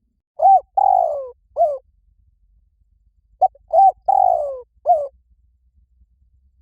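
Spotted dove cooing: two three-part phrases about three seconds apart. Each phrase is a short coo, a longer coo falling in pitch, and a short closing coo.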